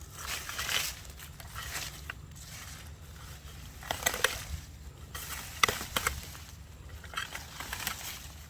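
Leafy sweet potato vines being pulled and torn away from a fence: irregular rustling and crackling, with a few sharp snaps about halfway and two-thirds of the way through.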